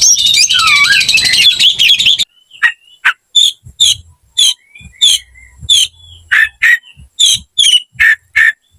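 Oriental magpie-robin (kacer) singing its agitated 'fighting' song, the kind used to provoke other magpie-robins. It starts as a fast, dense stream of varied high notes, breaks off suddenly after about two seconds, and goes on as a string of separate sharp, clear notes, two to three a second.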